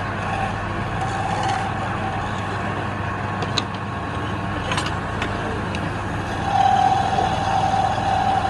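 A machine motor running steadily with a low hum. A higher steady whine comes in louder about six and a half seconds in, and a few sharp clicks sound near the middle.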